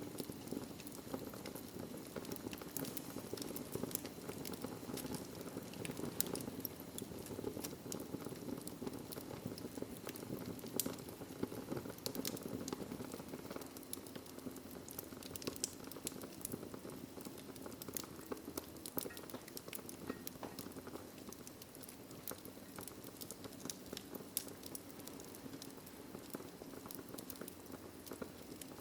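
Fireplace fire burning, with a steady low rush of flame and frequent irregular sharp crackles and pops.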